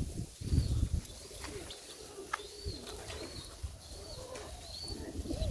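Serbian Highflier pigeons cooing in low, wavering coos, with a few short high chirps over them. Low rumbling noise fills the first second.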